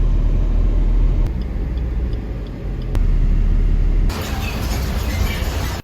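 Heavy low rumble of a moving vehicle. A rushing hiss like wind rises sharply about four seconds in, and the sound cuts off abruptly near the end.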